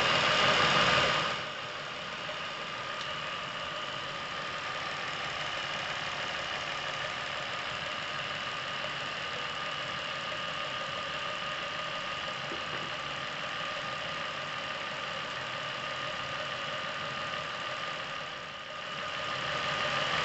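Chevrolet Epica car engine running steadily during an engine-flush cycle. It is louder for about the first second and gets louder again near the end.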